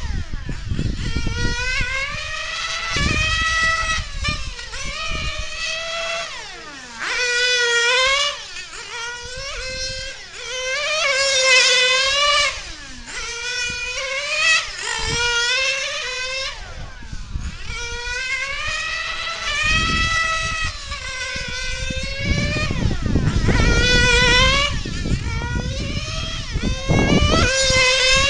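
Small nitro engine of a 1/8-scale on-road RC car (a Novarossi 9-port) revving high on the straights and dropping off for the corners, its pitch rising and falling lap after lap. Its pitch falls sharply each time it passes close, several times.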